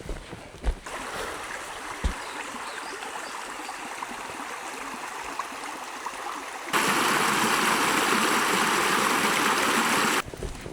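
Running water of a stream, a steady rushing. About two-thirds of the way through it switches abruptly to a louder, closer rush that cuts off suddenly near the end.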